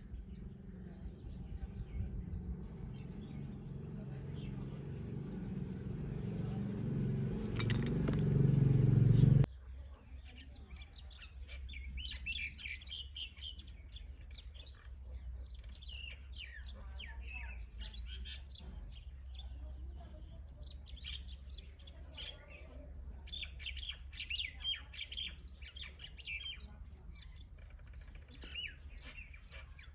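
A low rumble grows louder over the first nine seconds or so and cuts off abruptly, then many small birds chirp with quick, short calls.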